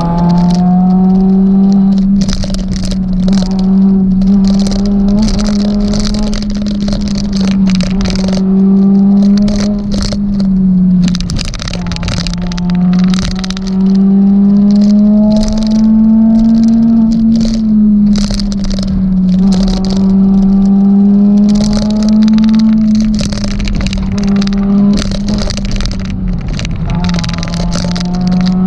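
A Suzuki Swift Sport ZC32S's 1.6-litre four-cylinder engine heard from inside the car, held at high revs under load during a hill-climb run, with the revs briefly dropping and recovering a few times as the driver lifts or changes gear. Repeated sharp rattles and clatters from the car run throughout.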